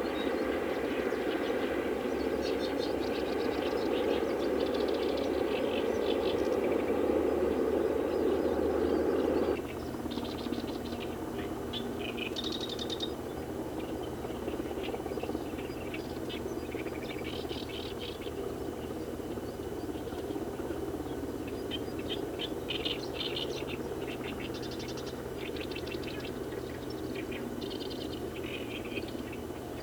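Wild birds chirping in short, repeated high calls. A loud, steady machine noise runs under them for about the first ten seconds and then cuts off suddenly, leaving a faint steady hum.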